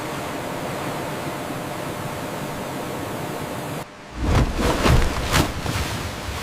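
Steady rushing water noise that cuts off suddenly about four seconds in, followed by a run of loud, low splashing surges and thumps.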